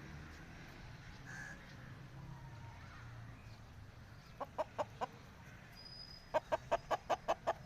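Chicken clucking in short, sharp notes: four about four and a half seconds in, then a quicker run of about eight near the end, over a low background murmur.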